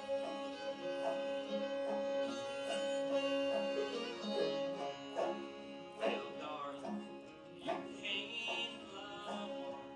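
Live bluegrass string band playing an instrumental passage, with banjo, fiddle and guitar. One long held note runs through the first four or five seconds over steady plucked picking.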